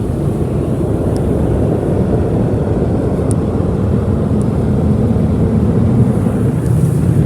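MacNeil Tech 21 car wash air dryers with the older-style motors blowing steadily: a loud, even rush of air with most of its weight low down.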